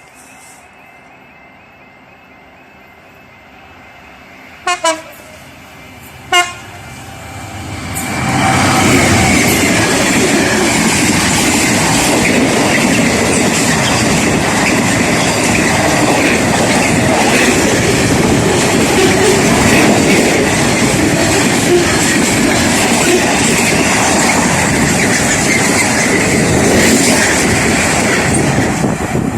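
A level crossing's warbling warning alarm sounds. A train gives two short horn blasts, then passes close by as a long, loud rush of wheels on rails lasting about twenty seconds, which starts to ease near the end.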